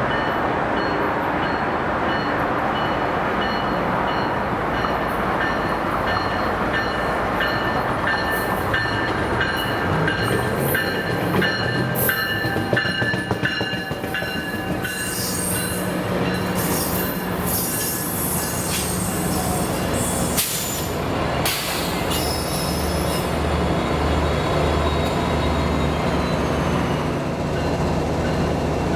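Train at a station platform: a steady rumble of rail cars on the track, with high-pitched wheel squeals and screeches from about a third of the way in to about three quarters through, and a steady low engine hum under the later part.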